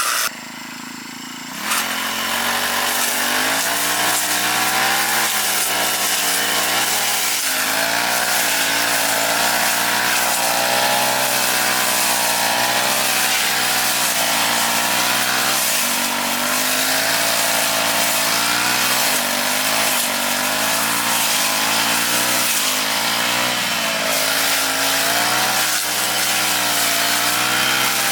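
Small petrol engine of a grass cutter running fast, its pitch rising and falling as it works. It drops back for about a second and a half just after the start, then picks up again.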